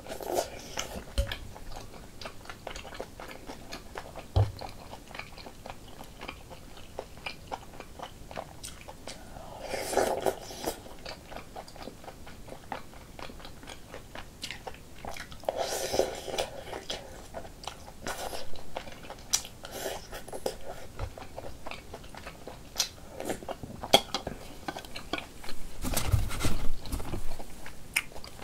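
Close-miked chewing and biting of food: many small wet mouth clicks, with a few louder stretches of eating noise and some soft low knocks near the end.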